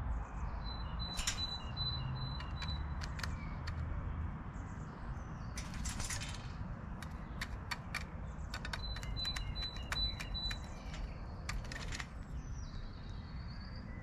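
Bird outdoors calling in two runs of short, quick, evenly repeated high notes, among scattered sharp clicks and taps, with two brief rustling bursts, over a steady low rumble of wind.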